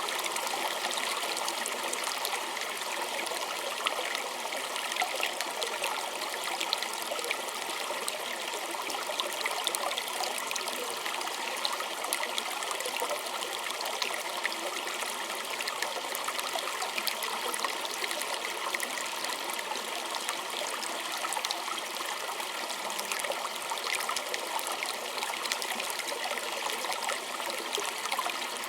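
Small stream trickling and babbling over stones: a steady rush of water with many small splashes and droplets, even throughout.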